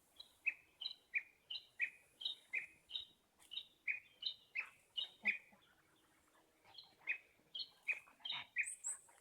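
A songbird calling over and over with a short two-note phrase, a lower note then a higher one, about two to three times a second, breaking off for a second or so a little after halfway and then starting again.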